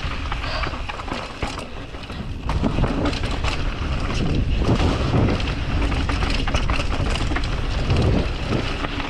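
Strong wind buffeting the microphone, a heavy low rumble throughout, with scattered clicks and rattles over it.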